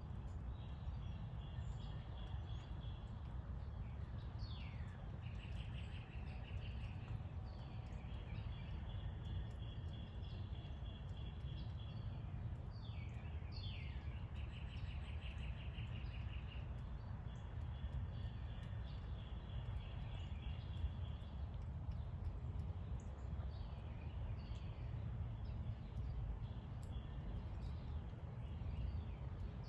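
Small birds trilling over and over in the background, each trill a rapid run of notes lasting two or three seconds, with a few quick downward-sliding calls between them. A steady low outdoor rumble runs underneath throughout.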